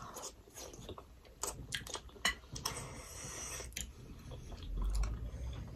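Close-miked chewing of steamed mutton momos, with scattered soft wet mouth clicks.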